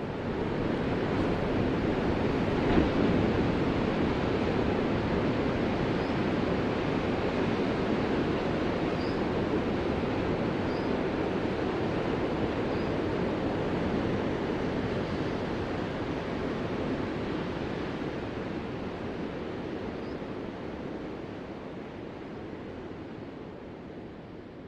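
Ocean surf: a steady wash of breaking waves that comes up out of silence and slowly fades away over the last several seconds.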